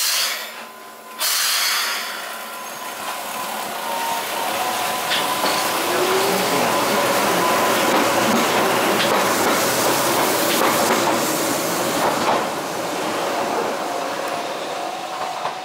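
Keihan 600-series two-car train moving at the platform: a steady noise of wheels and running gear with a few faint squeals and scattered clicks. A hiss sounds at the start, and the noise jumps up again about a second in.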